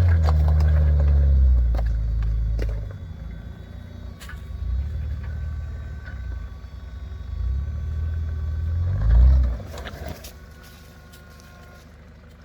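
Four-wheel-drive engine revving loudly for the first couple of seconds, then running lower, with a second short burst of revs about nine seconds in. Scattered sharp knocks are heard between them.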